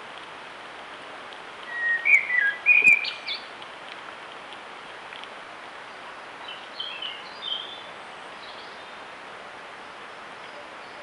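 A small bird singing two short phrases of whistled notes, a louder one about two seconds in and a fainter, higher one about six and a half seconds in, over a steady hiss.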